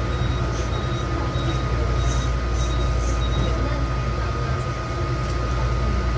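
Taichung MRT metro train: a steady low rumble with a constant thin whine above it, and faint short high pips repeating for the first few seconds.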